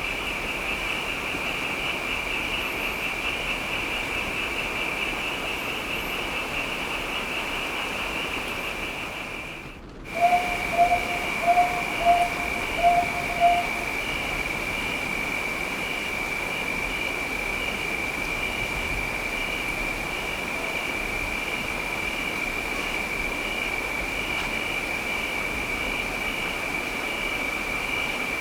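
Steady rain hiss under a continuous high, evenly pulsing trill. About ten seconds in the sound briefly fades almost out, then six short low tonal calls come about two a second, the loudest sounds here.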